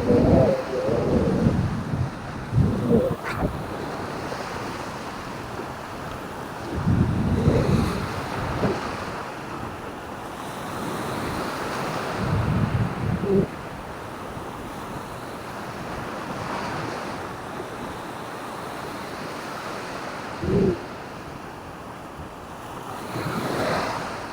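Surf washing on a beach under a steady rush of noise, with wind gusts buffeting the microphone in irregular low rumbles every few seconds.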